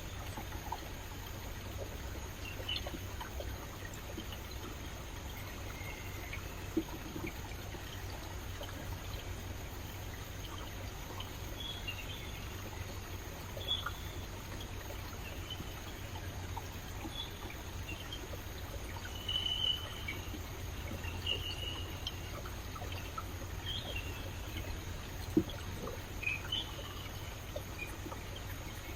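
Stream flowing and trickling steadily, with short high bird chirps scattered throughout and a few brief splashes or clicks, the sharpest about 25 seconds in.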